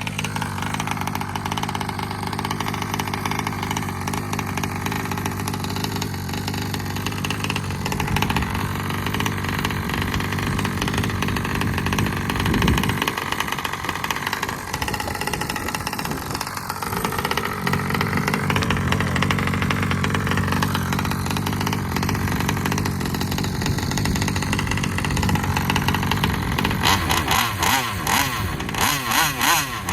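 Taylor 35 reed-valve two-stroke engine of a gas-powered RC vehicle running on a test rip, its revs rising and falling, with rapid pulsing revs near the end.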